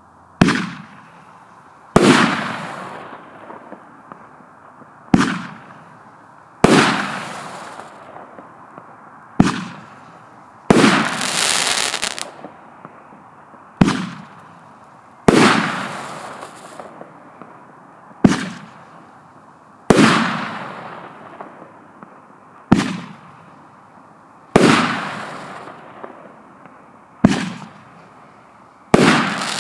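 1-inch Roman candle firing shot after shot: each shot a sharp pop followed about a second and a half later by a second bang that fades out with crackling, about seven pairs in all at an even pace of one every four to five seconds.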